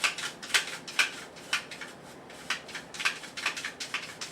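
A quick, irregular run of light clicks and taps, a dozen or more, as chopped parsley is shaken and tapped out of a container over a plate of pasta; they stop near the end.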